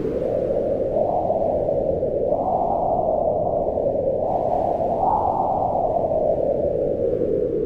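Wind blowing steadily in a low rushing band, its pitch swelling upward and falling back in slow gusts, most strongly about two and a half and five seconds in.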